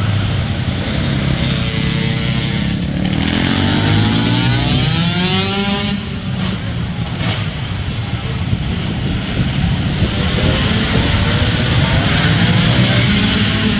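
Single-cylinder 450cc four-stroke race quad engines running hard on a short track, revving up and down, their pitch sweeping up and falling away again and again as the throttle is opened and chopped through the turns.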